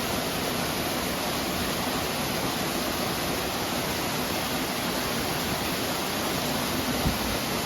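Steady rushing water, an even unbroken roar, with a brief low bump near the end.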